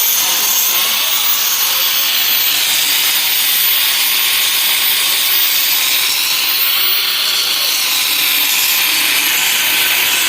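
Power tool working steel on an excavator boom repair: a continuous hiss with a faint whine that drifts slightly in pitch.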